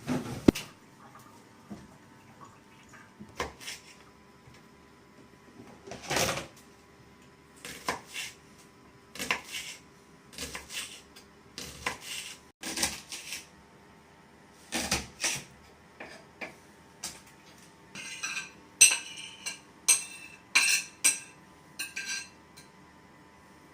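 Pots, pans and metal utensils clattering in scattered knocks and scrapes, with a quick run of ringing metallic clinks near the end.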